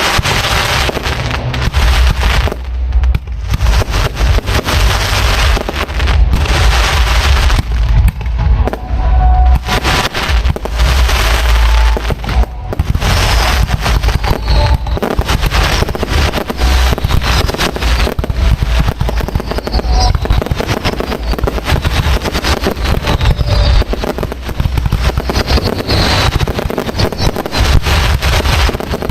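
Aerial fireworks going off in rapid, continuous succession close by: dense overlapping bangs and crackling over a heavy low rumble, with a few faint whistles.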